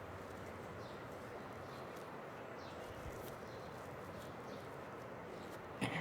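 Faint, short, high chirping calls, several spread over a steady background hiss, and a sudden knock near the end.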